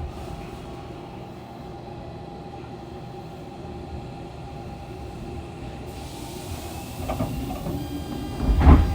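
Fukuoka City Subway 2000 series train standing with a steady low hum. Near the end come two heavy clunks about a second and a half apart, the line breaker engaging as the Hitachi GTO-VVVF car gets ready to pull away.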